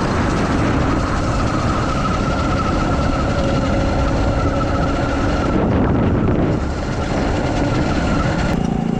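Wind rushing over the microphone as a mini bike with a dead engine coasts downhill, with a faint engine hum underneath from another bike. About eight and a half seconds in, the higher engine tone stops and a lower, steadier hum takes over.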